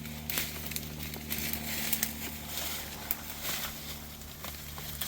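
Irregular rustling and crackling of leaves and twigs from downed tree branches in thick brush, with sharp snaps scattered throughout.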